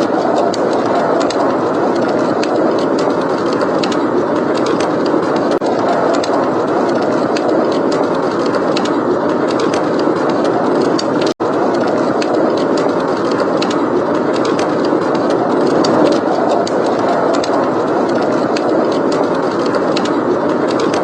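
Steady blizzard wind, with a wood fire crackling in small sharp pops throughout. The sound cuts out for an instant about halfway through.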